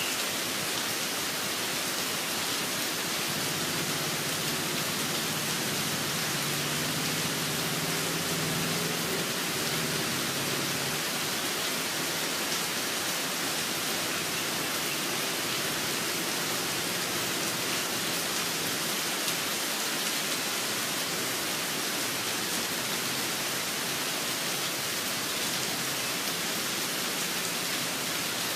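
Steady rain falling, an even hiss, with a few faint bird chirps near the start and near the end and a faint low hum for a few seconds in the first half.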